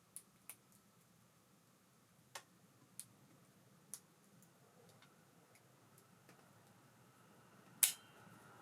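Scattered small, sharp clicks a second or so apart, with one louder click near the end, from handling the parts of a baitcasting reel and small tools.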